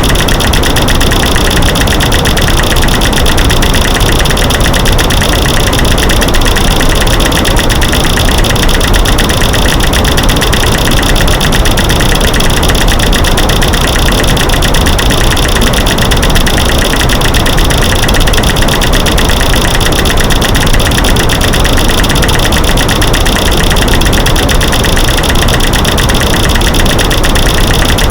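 Loud, dense clicking and snapping that never lets up, a mash of light-switch clicks, breaking sticks and rocks knocking together, laid over a white-noise hiss.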